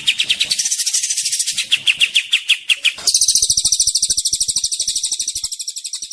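Songbird singing fast strings of sharp repeated notes, about ten a second, with a harsh, rasping stretch about a second in. From about three seconds in it switches to a faster, higher rattling trill.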